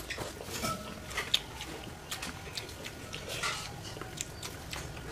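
A person chewing and smacking a mouthful of food eaten by hand, with short, irregular mouth clicks.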